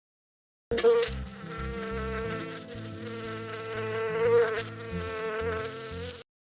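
An insect buzzing steadily in flight for about five and a half seconds, starting and stopping abruptly.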